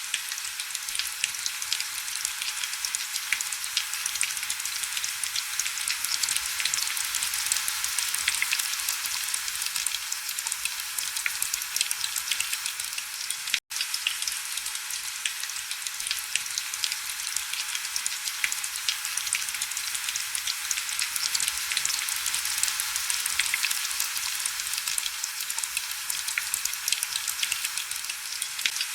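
Heavy rain falling steadily, a dense crackling patter of drops over an even hiss with almost no low rumble. The sound drops out for a split second about halfway through.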